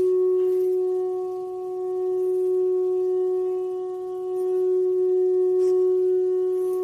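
A steady, unbroken musical drone on one pitch with a few faint overtones, swelling and easing slightly every couple of seconds.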